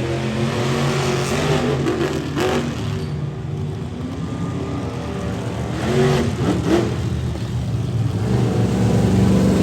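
Monster truck engine running loud and revved hard, with sharp rises in revs about two and a half seconds in and again around six to seven seconds.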